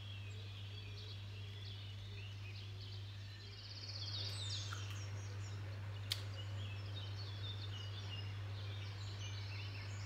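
Songbirds singing and chirping, with a quick trill about four seconds in, over a steady low hum. A single sharp click about six seconds in.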